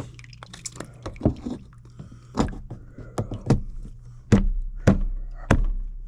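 A series of about ten sharp, irregular knocks and clunks over a steady low hum.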